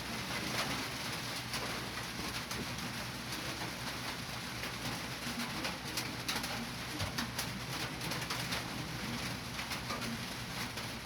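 Soft, low cooing calls, repeated every second or so over a steady hiss, with scattered clicks.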